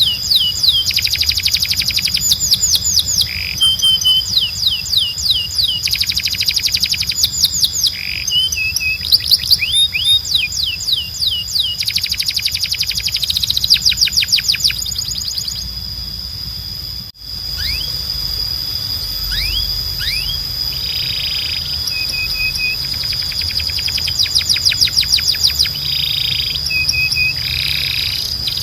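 Timbrado canary singing: fast trills of repeated falling notes in runs of a second or two, with a steady high tone held beneath them and a low hum underneath. The song breaks off briefly about seventeen seconds in.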